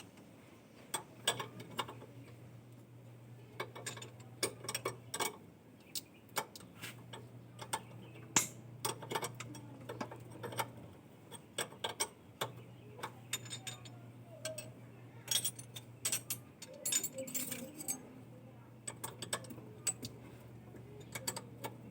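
Sharp metallic clicks and clinks at uneven intervals, as from tools and small metal parts being handled, over a low steady hum that drops out three times.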